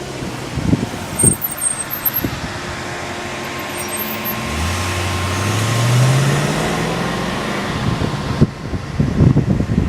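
A car engine accelerating, its pitch rising steadily for a couple of seconds about halfway through, over road noise. Wind buffets the microphone near the end.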